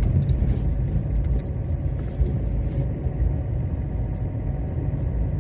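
Steady low rumble of a car's engine and road noise while driving.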